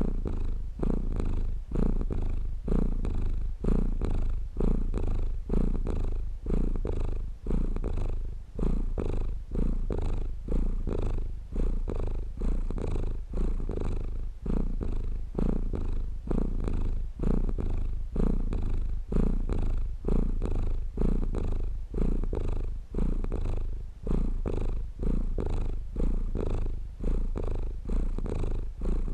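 Domestic cat purring close up: a continuous low rumble that swells and dips in an even rhythm about every second and a half as the cat breathes in and out.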